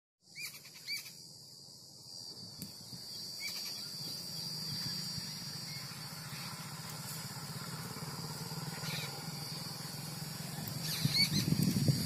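A handful of short, separate bird chirps, about five in all, over a steady high-pitched whine and a low steady rumble. The low sound grows louder near the end.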